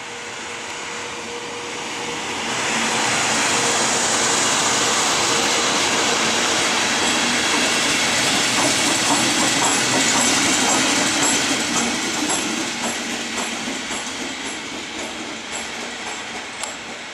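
A light-engine train of locomotives (an electric locomotive leading, a second electric locomotive and a diesel shunter behind) passing close by. The rumble of wheels and running gear swells about three seconds in, holds, then fades over the last few seconds, with wheel clicks over rail joints midway.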